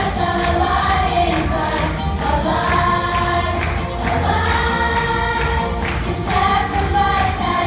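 A group of voices singing a song over instrumental backing.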